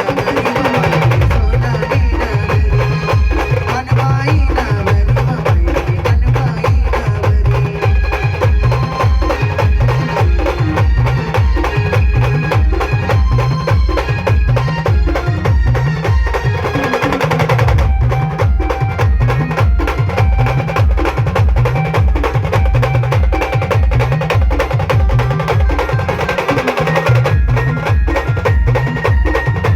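Band-party music played loud through a heavy bass speaker rig: a fast, pounding bass beat with percussion under a melodic line. The bass drops out briefly about halfway through, then comes back.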